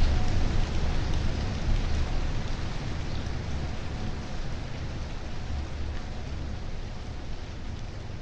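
Steady rain falling, a continuous hiss, over a deep low rumble that slowly fades away.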